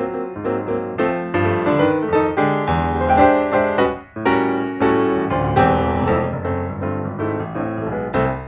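Piano music, a melody over low chords with a brief pause about four seconds in, fading out near the end.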